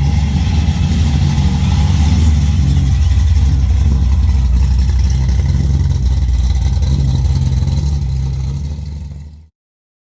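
Car engine running with a steady, low rumble, fading out about nine seconds in.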